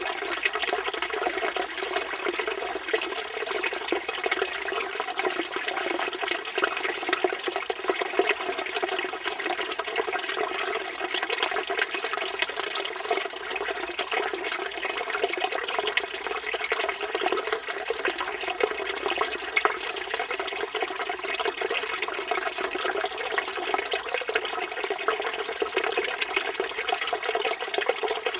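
Village fountain (çeşme) with water pouring steadily from its spout and splashing into the stone basin below.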